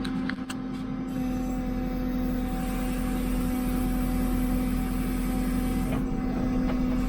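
JCB 3CX backhoe loader's diesel engine running steadily under work, heard from inside the operator's cab, with an even droning hum. A few short clicks come about half a second in.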